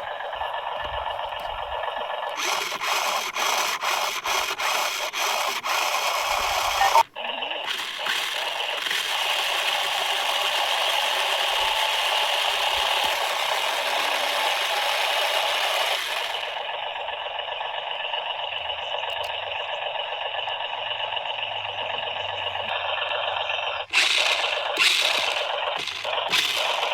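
Scraping and rattling of radio-controlled toy construction vehicles at work, a steady noisy clatter with a quick run of clicks in its first several seconds. The sound breaks off and changes abruptly three times.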